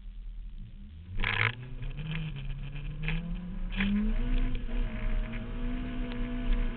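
Competition car's engine heard from inside the cabin, idling at first, then pulling away hard about a second in. The pitch climbs in steps with short dips at the gear changes, then holds a steady high note for the last few seconds.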